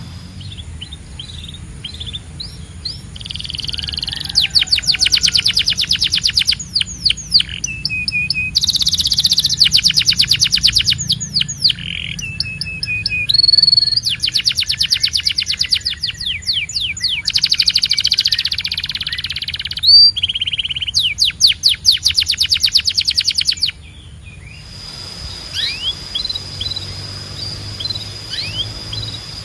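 Canary singing: a run of fast trills and rolling phrases, each a few seconds long with short breaks between them. Near the end the song drops to sparse, quieter chirps.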